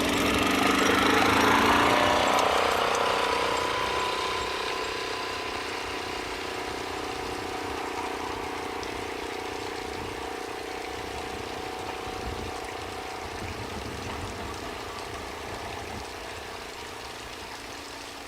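Diesel train passing close by: its engine note peaks and drops in pitch about two seconds in, then fades steadily as it runs away into the distance.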